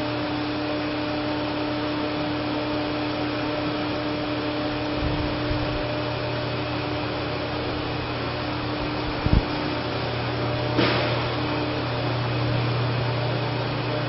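2002 Chevrolet Silverado 1500's 4.3-litre V6 engine idling steadily, with a short click about nine seconds in.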